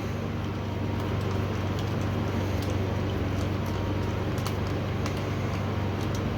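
Steady low mechanical hum, with a few faint light clicks of small parts being handled.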